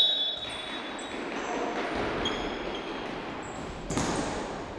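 Indoor mini-football play in a reverberant hall: a steady background of players moving and calling, a sharp ball strike about four seconds in, and short high squeaks scattered through.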